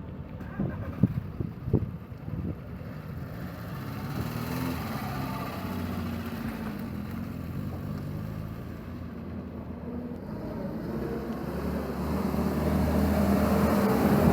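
A vehicle engine running, growing louder near the end. A few sharp knocks sound in the first two seconds.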